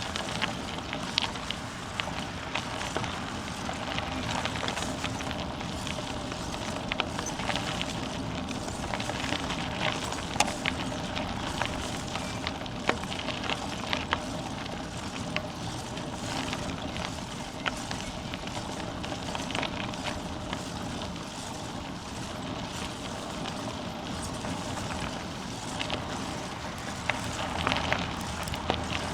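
Bicycle riding along a path: steady rolling tyre noise with frequent small clicks and rattles.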